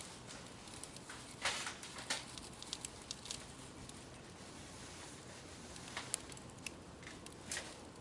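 Wood fire crackling, with irregular sharp snaps and pops over a low steady hiss.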